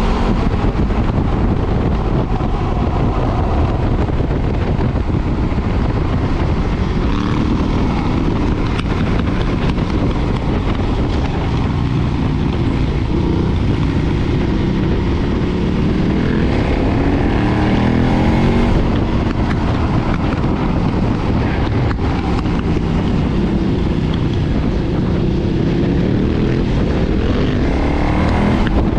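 KTM 990's stock-exhaust LC8 V-twin running under way, with the engine note rising through the revs a couple of times: once around the middle and again near the end.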